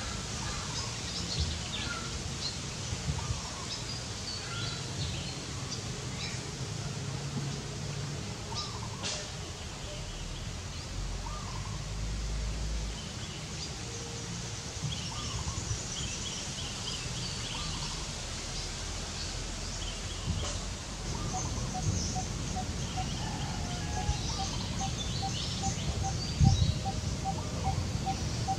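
Outdoor ambience of wild birds chirping now and then over a steady low rumble. In the second half a bird starts a run of short, evenly spaced notes at one pitch.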